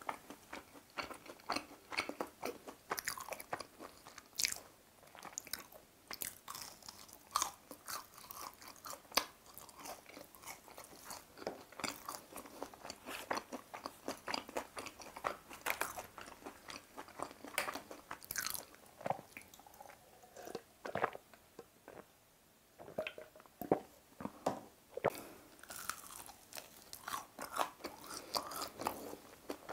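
Crunching and chewing of battered, deep-fried squid rings: the crisp coating crackles in quick irregular bursts with each bite and chew. There is a short lull about two-thirds through, then louder crunches.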